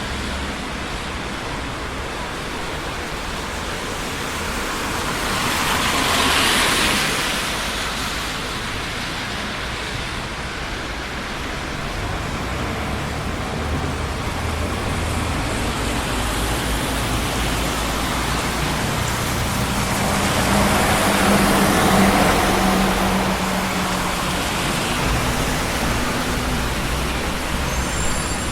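Steady traffic on a busy city street, a constant roar of tyres and engines. Two vehicles pass close by, one about six seconds in and a louder one with an engine hum around twenty seconds in.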